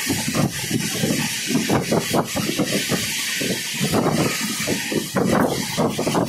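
Danapur–Secunderabad Humsafar Express running at speed, heard from aboard: a steady rush of wind with the uneven rumble of wheels on the rails.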